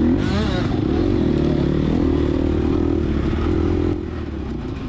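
Gas Gas EX250F four-stroke single-cylinder dirt bike engine running hard under throttle on a trail, its pitch rising and falling with the throttle, then easing off about four seconds in.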